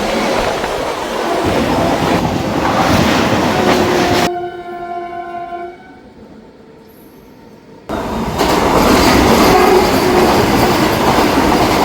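A train passing close at speed, a loud steady rumble and clatter of wheels on rail. About four seconds in the noise cuts off abruptly, a train horn sounds for about a second and a half, and after a short quieter stretch the loud train noise cuts back in.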